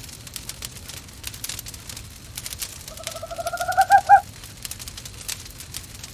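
Wood fire crackling with scattered sharp pops, and an owl calling once about three seconds in: a quick run of notes, rising slightly in pitch, a little over a second long.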